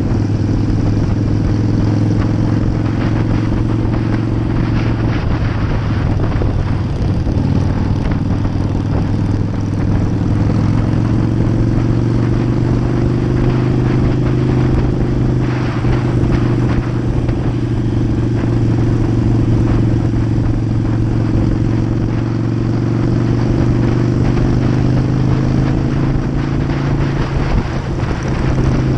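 Harley-Davidson air-cooled V-twin motorcycle engine running at a steady cruise, its note shifting only slightly with small changes in speed, over wind and road noise.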